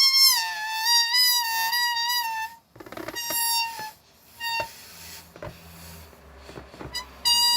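Rubber balloon squealing as air escapes through its stretched neck: a high, wavering whine for about two and a half seconds, then a few shorter squeals and a quieter gap, and a new steady squeal starting near the end.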